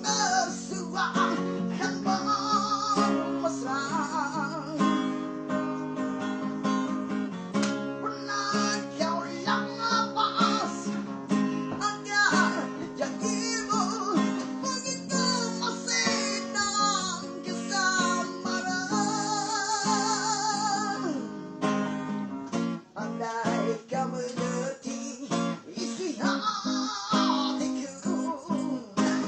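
Guitar music: strummed acoustic guitar chords with a wavering lead melody over them, playing continuously.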